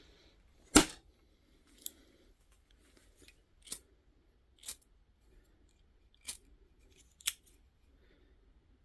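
Mini Zippo lighter's metal lid clicking open and shut, six or so sharp clicks about a second apart, the first the loudest.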